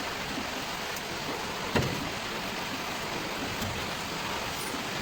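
Steady background hiss, with one short knock a little under two seconds in.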